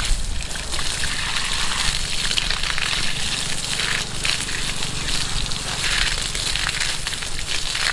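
Water gushing and splashing steadily from the outlet of a homemade pump that works without an engine.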